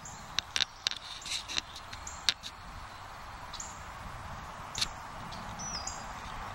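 Small birds calling with short, high chirps over a steady background hiss. There is a quick run of sharp chips in the first couple of seconds and a call that steps down in pitch near the end.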